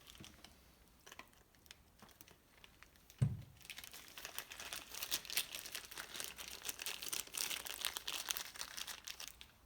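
Packaging crinkling and tearing as it is cut open with scissors, with one dull knock about three seconds in.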